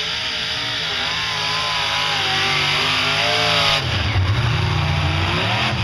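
Modified pulling tractor's engines running flat out under load, the pitch wavering up and down. About four seconds in, the high, harsh part of the sound cuts off suddenly and a heavy low rumble takes over as the throttle comes off at the end of the pull.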